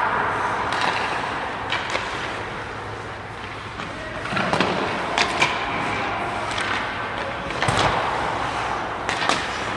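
Scattered sharp knocks and thuds over a steady noisy hubbub, with two louder noisy swells, about halfway through and again near the end.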